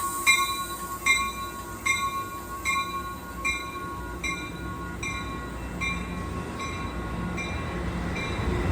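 Railroad crossing bell ringing in even strokes a little faster than once a second, fading toward the end, over the low rumble of a train that grows louder.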